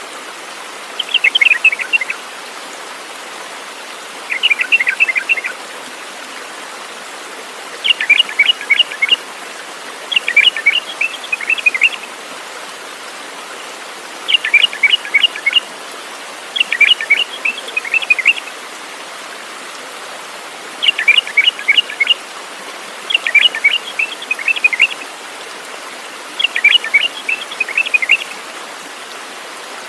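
A songbird singing the same short phrase over and over, each a rapid run of chirping notes about a second long, about every two to three seconds, over a steady background hiss.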